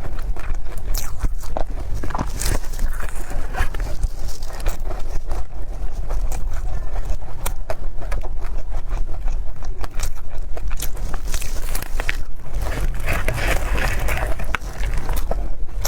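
Close-miked eating sounds: chewing, with many small wet clicks and smacks from the mouth and a denser spell of chewing near the end, over a steady low rumble.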